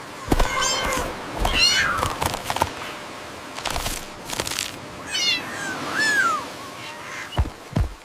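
A cat meowing several times, in drawn-out calls that bend in pitch, with short taps and clicks between them.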